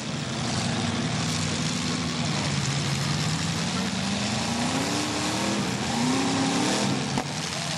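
Several demolition derby cars' engines running together on a dirt arena, one revving up with a rising pitch over a few seconds. A single sharp knock near the end.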